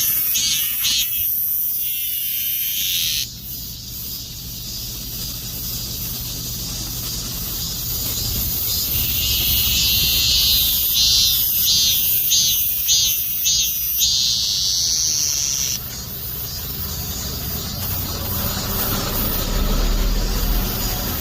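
Robust cicadas (Hyalessa fuscata) singing: a loud, high-pitched buzzing song in pulsed phrases that stops suddenly about three seconds in, starts again around nine seconds and cuts off near sixteen seconds, over a steady high insect hiss. A low rumble comes in near the end.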